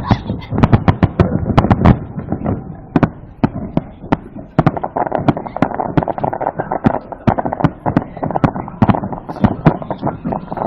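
Aerial fireworks going off in a rapid barrage: a dense run of heavy bangs in the first two seconds, then quicker, lighter cracks and pops.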